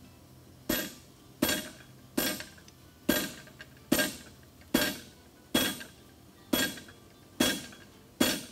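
Farrier's hammer striking hot steel horseshoe stock on an anvil: about ten single blows at an even, unhurried pace, each with a short metallic ring.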